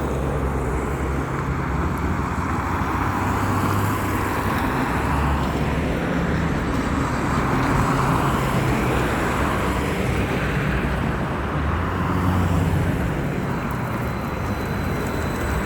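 Sinara-6254 trolleybus on the move: steady road and tyre noise with a low, even hum underneath.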